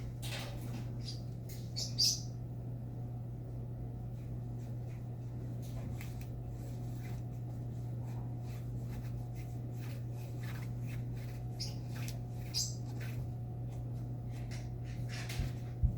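A pet parrot giving a few short, high chirps, the loudest about two seconds in and more near the end, over a steady low hum.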